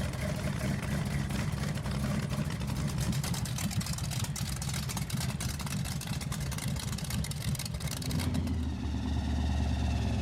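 Loud rat rod engine running, with many sharp pops over its low note. About eight seconds in, a steadier, deeper engine drone takes over.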